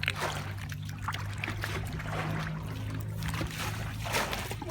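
Irregular water splashing and sloshing, over a steady low motor hum.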